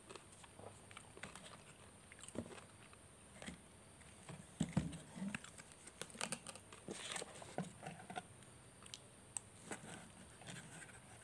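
A person eating a burger and fried chicken: faint chewing and biting mouth sounds with scattered small crackles and clicks from handling the food, loudest about halfway through.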